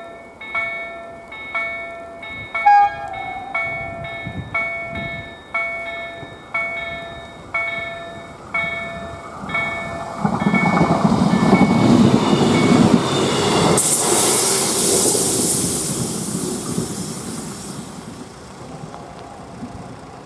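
Electronic level-crossing bells striking about once a second, then a passenger railbus (szynobus) running over the crossing. The train is loudest in the middle, with a hissing rush, and fades near the end.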